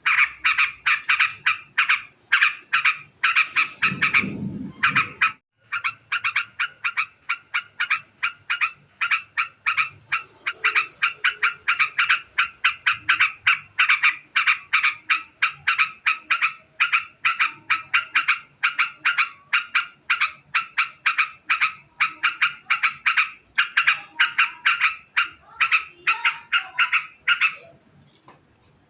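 Yellow-vented bulbul giving its long, very fast chattering call, a rapid run of sharp repeated notes, several a second. A low rumble breaks in briefly about four seconds in, and the calling trails off near the end.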